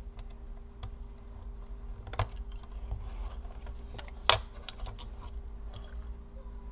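Small clicks and taps of a laptop's plastic parts and connector being handled while the cooling fan's cable is unplugged and the fan freed, with two sharper clicks about two and four seconds in.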